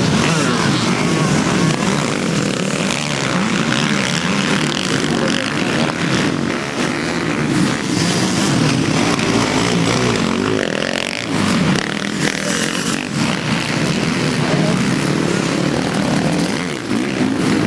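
Motocross motorcycle engines running hard, their pitch rising and falling as the throttle is worked.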